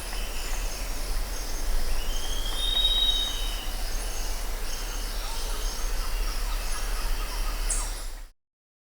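Jungle ambience: a dense, steady chorus of insects and birds, with one drawn-out whistled bird call about two seconds in and a low steady hum underneath. The sound cuts off abruptly near the end.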